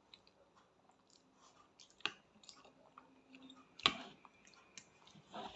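A child chewing pasta: soft, wet mouth sounds and small clicks. There are two sharper clicks, one about two seconds in and a louder one near four seconds.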